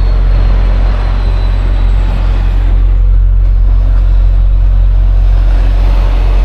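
Semi truck's diesel engine running steadily with a deep low rumble, heard from the cab with the windows down.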